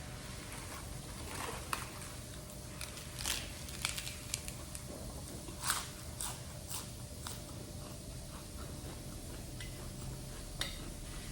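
A person eating rice and stir-fried seafood: bites and chewing, with a scattering of sharp clicks and scrapes of a spoon on a plate, over a steady low background noise.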